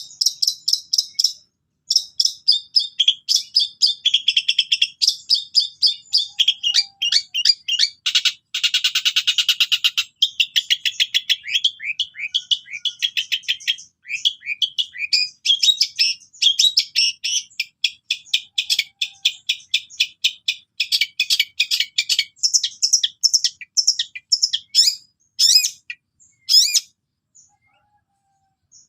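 Long-tailed shrike (cendet) singing a long, rapid chattering song of quick repeated notes and trills, with a harsher, buzzier stretch about a third of the way in; near the end it thins to separate, spaced notes.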